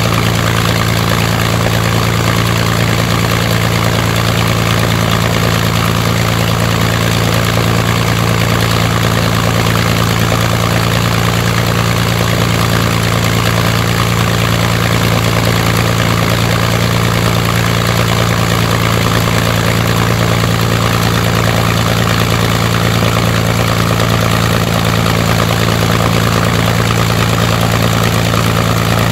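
Rolls-Royce Merlin V12 aero engine running steadily on a ground test run, its propeller turning in fine pitch. A deep, even drone with no change in speed.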